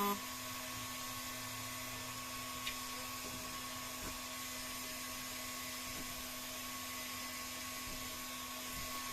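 Hot-air heat gun running steadily, a constant hum and hiss with a few fixed tones, heating the glued rubber strip on a PVC boat so it can be worked loose with a spatula.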